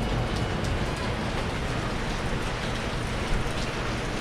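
Steady rain falling and pattering on a surface overhead, with scattered drop ticks.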